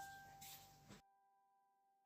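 Near silence, with one faint, held ringing note slowly fading away. Faint background hiss cuts off suddenly about a second in.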